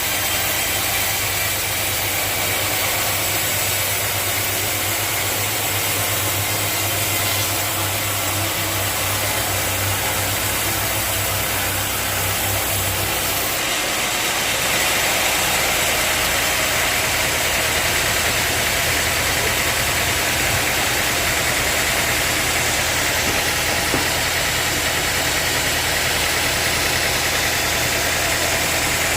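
Sawmill machinery running steadily with a low engine-like hum. About halfway through the hum drops in pitch and the sound grows brighter and slightly louder, then holds steady.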